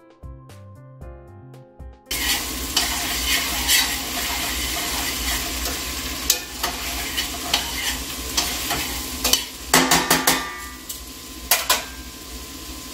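Music for about two seconds, then cooking sizzling and frying in a stainless-steel stew pot on a gas burner, with sharp clicks and knocks throughout.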